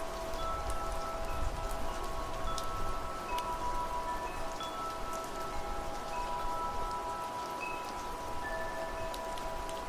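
Wind chimes ringing, several overlapping metal tones struck at random and sustaining, over a steady wash of rain.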